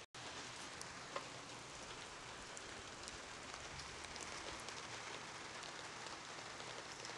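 Monsoon thunderstorm rain falling steadily, with scattered individual drops ticking and one louder drip about a second in.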